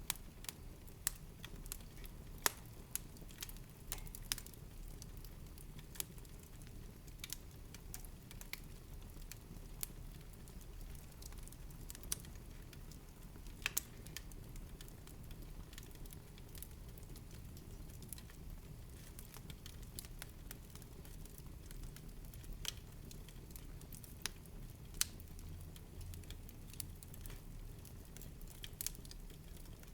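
Fire burning in a fireplace: irregular sharp crackles and pops, a few louder than the rest, over a low steady rumble.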